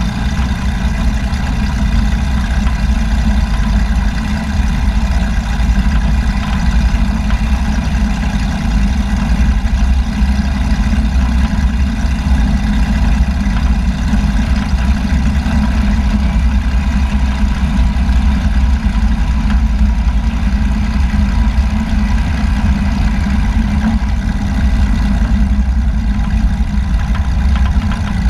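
Aircraft engine running steadily, heard from inside the cabin as a loud, even low drone with no change in power.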